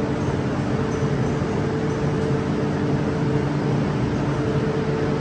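Steady running noise of an MTR M-Train electric multiple unit heard from inside the carriage: an even rumble with a low hum of a few held tones.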